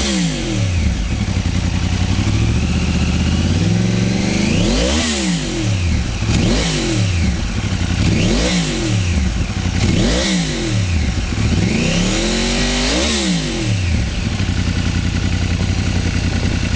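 2009 Yamaha R1's crossplane inline-four breathing through an Akrapovič aftermarket exhaust with the baffle still fitted, idling and blipped about five times, each rev rising quickly and dropping back to idle.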